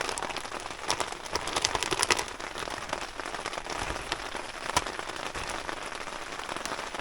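Steady rain falling and pattering, with a cluster of sharper drops and clicks about one to two seconds in.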